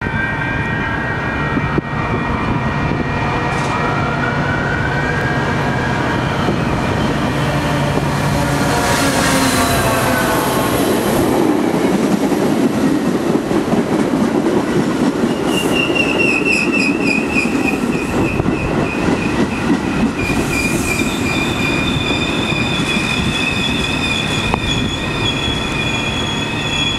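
Metra bilevel commuter train arriving and running past along the platform: a steady rumble of wheels on rails, joined about halfway through by a high, steady wheel squeal as the train brakes to a stop.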